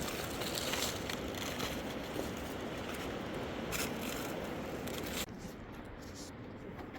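Dense crackling and scraping over a steady rushing noise, dropping abruptly to a quieter background about five seconds in.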